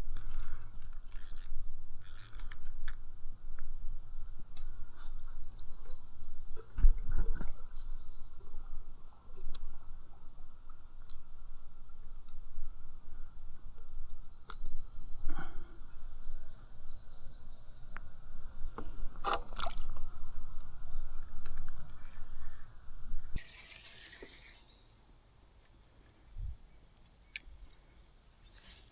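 Steady high-pitched drone of insects calling. Scattered clicks, knocks and low rumbling from close handling run over it until about 23 seconds in, then stop, leaving the insects alone.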